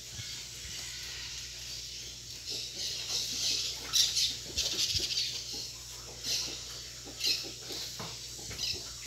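Birds chirping and twittering in quick, high-pitched bursts that come and go, loudest about four seconds in.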